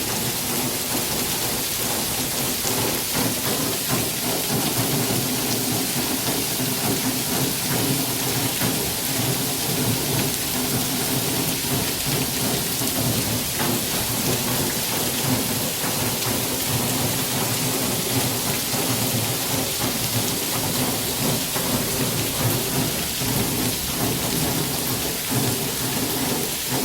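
Torrential rain pouring steadily in a downpour, loud and unbroken.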